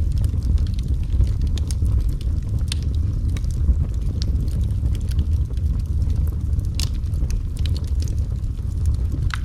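Wood fire burning in a fireplace: a steady low rumble of the flames with scattered sharp crackles and pops, two of them louder, near the third and seventh seconds.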